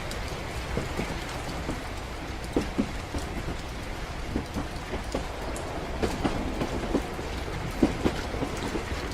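Train-ride ambience: a moving train's steady low rumble, with rain pattering and scattered light knocks.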